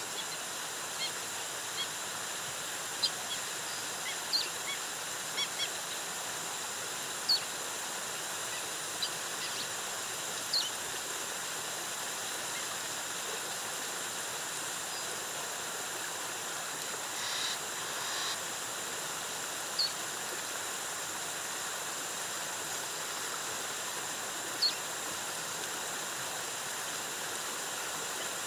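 Steady rushing water of a rainforest waterfall, with short high bird chirps scattered over it, most of them in the first half.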